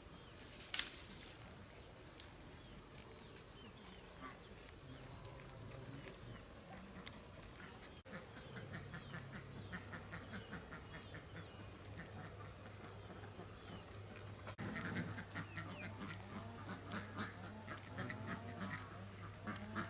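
Farmyard geese and other poultry calling, quiet and scattered, with calls clustering in the last few seconds. A steady high insect drone and small bird chirps run underneath, and a low steady hum comes in about eight seconds in.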